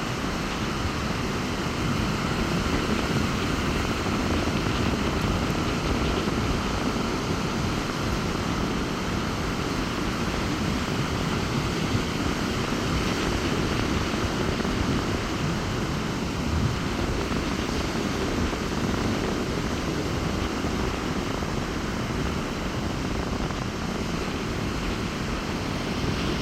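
Sea surf breaking on the beach in strong wind, a steady rushing noise with wind buffeting the microphone.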